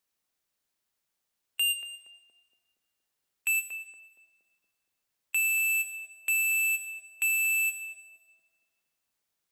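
A high-pitched ding sounds twice with a fading ring. It is followed by three longer, held dings in quick succession, with dead silence in between.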